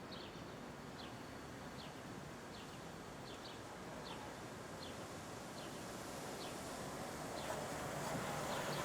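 A small bird chirping over and over, short high chirps that slide downward, spaced under a second apart, over steady city traffic noise that swells over the last few seconds.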